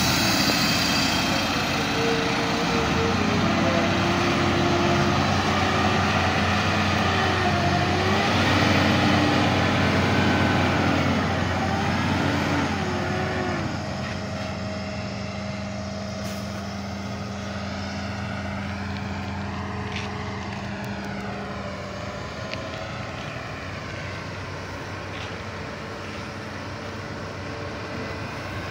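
Hino 500 dump truck's diesel engine running, its pitch rising and falling as it is driven for the first dozen seconds, then settling to a quieter, steadier run.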